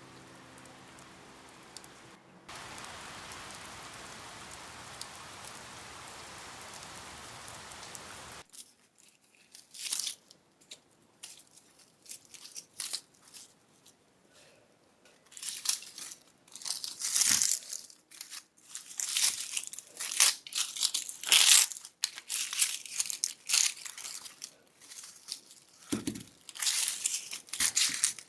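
Steady rain hiss for about the first eight seconds. After that come irregular, close crinkling and crunching handling sounds in short bursts that grow louder and busier in the second half, typical of hands working potting mix and plastic during repotting.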